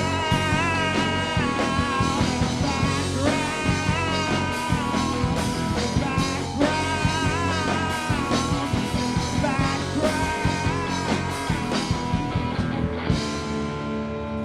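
Live rock band playing an instrumental passage in a psychedelic rock style: drums, bass and guitar under a stepping lead melody. About thirteen seconds in the drums drop out and held notes ring on.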